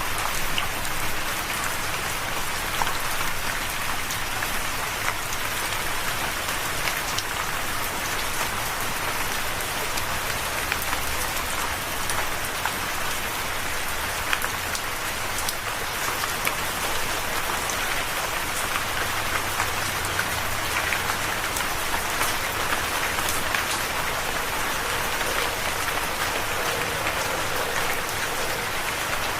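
Steady rain falling, an even hiss with many small drop patters scattered through it.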